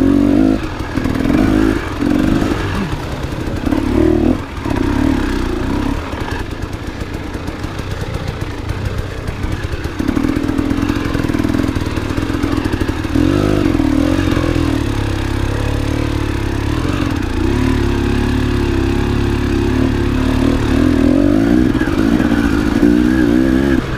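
Enduro motorcycle engine running under changing throttle, revving up and easing off. It drops to a lower, quieter note for a few seconds, then runs louder and steadier with brief revs.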